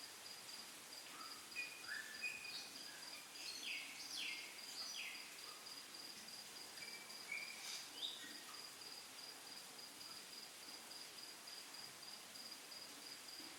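Faint outdoor ambience: an insect trilling steadily in a fast, high, pulsing trill, with scattered short bird chirps, most of them in the first eight seconds.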